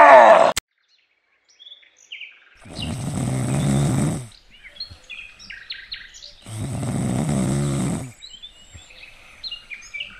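Snoring, two long snores about four seconds apart, with small birds chirping in the gaps between them.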